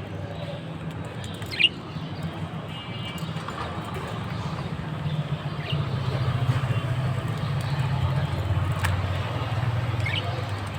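Bird chirping in short single calls, three times, over a steady low rumble that grows louder in the second half.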